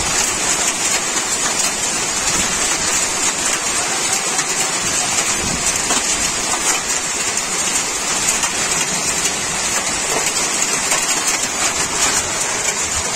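Heavy rain pouring down in a steady, dense hiss of drops striking the ground and surfaces nearby.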